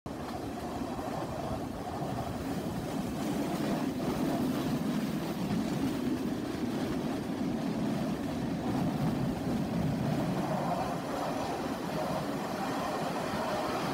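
Passenger train running along the line, heard from on board a carriage: a steady running noise of wheels and coach.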